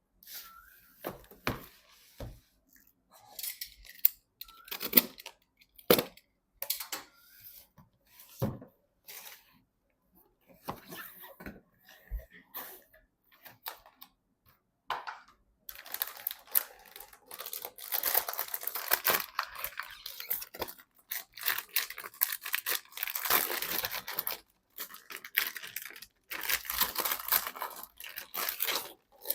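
Packaging being handled and torn open, likely PC parts being unboxed: scattered knocks and rustles, then longer stretches of tearing and crinkling in the second half.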